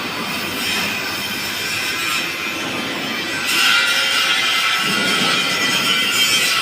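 A railway train running along the track: a steady rail noise that grows louder about three and a half seconds in.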